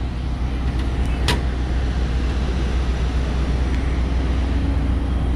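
Steady low rumble of a vehicle heard from inside it, with one sharp click about a second in.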